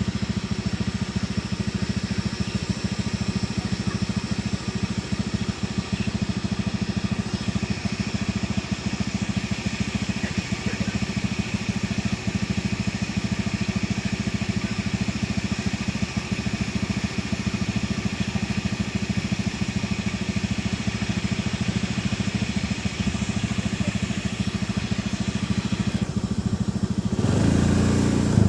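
Small engine running steadily with a fast, even firing pulse. Near the end its low note grows louder.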